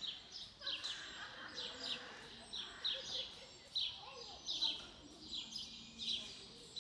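A small bird chirping repeatedly in short, high, falling chirps, about two a second, over a faint murmur of distant voices.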